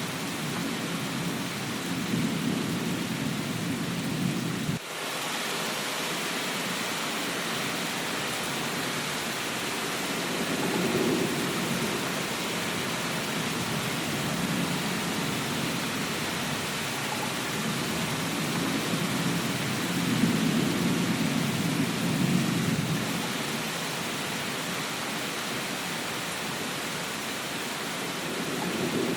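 Steady heavy rain hiss with low rolling rumbles of thunder swelling and fading several times, with a brief drop in the sound about five seconds in.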